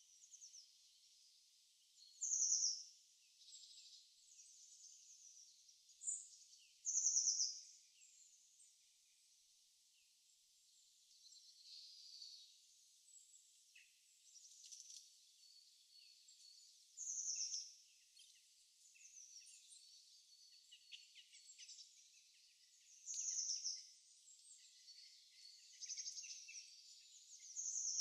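Birds chirping, faint and thin with nothing low beneath: short high calls and a quick falling trill that comes back every few seconds.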